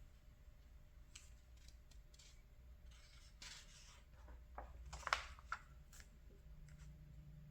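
Paper catalog pages being handled and turned: a soft rustling swish about three seconds in, then a crisp crackle of paper about five seconds in, the loudest moment, all faint over a low hum.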